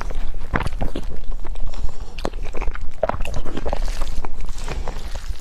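Mouth sounds of eating spicy fire noodles: wet chewing and smacking, with irregular clicks throughout.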